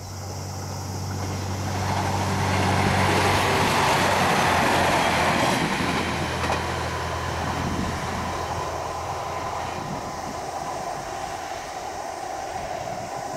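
Train passing close by on the line: the rolling noise of its wheels on the rails builds to its loudest about three to five seconds in, then slowly fades as it moves away. A steady low hum runs under the first few seconds.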